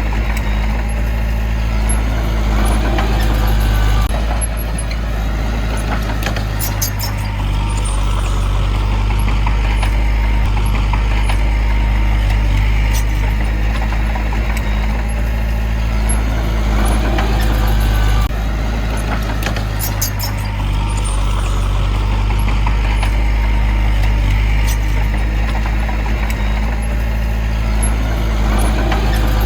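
Heavy diesel earthmoving machinery running steadily, its engine note shifting about four seconds in and again about eighteen seconds in, with brief metallic clatter around seven and twenty seconds.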